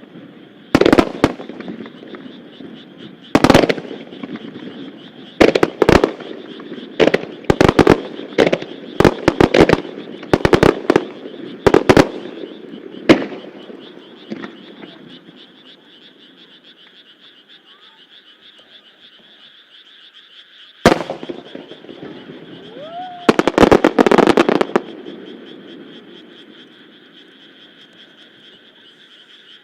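Starmine fireworks barrage: aerial shells bursting in a fast run of sharp bangs through the first dozen seconds. After a lull comes a single bang, then a short rising whistle and a tight cluster of bursts. Frogs croak steadily underneath.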